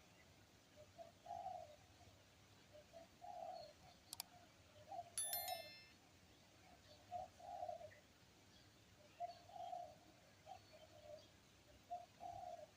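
Spotted dove cooing, short low phrases repeated every second or two. A brief high ringing ding sounds about four to five seconds in.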